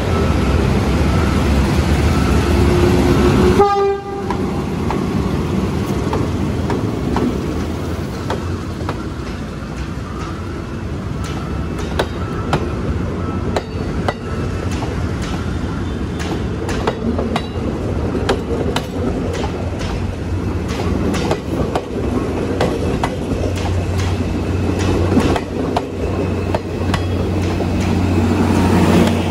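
PNR diesel-electric locomotive 902 running with a strong low drone as it pulls past. About four seconds in the sound drops abruptly, and its passenger coaches roll by with wheels clicking over the rail joints, the clicks coming thick and irregular through the second half.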